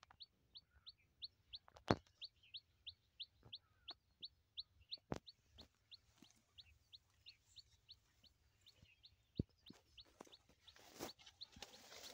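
A faint, high, short chirp repeated steadily about three times a second, typical of a small bird calling, with a few scattered sharp clicks.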